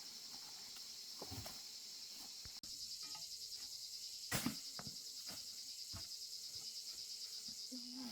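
Insects trilling steadily in a high, fast-pulsing chorus, with a few scattered clicks and one sharper click about four seconds in.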